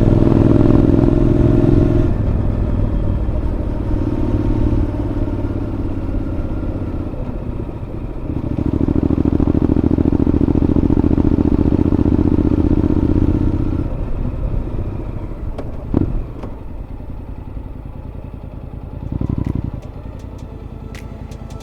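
Honda NC750X parallel-twin engine running through a Moriwaki aftermarket exhaust, heard close as from inside the rider's helmet: on the throttle at first, easing off about two seconds in, pulling strongly again for about five seconds, then dropping to a quieter low run near the end. A single sharp knock comes about two-thirds of the way through.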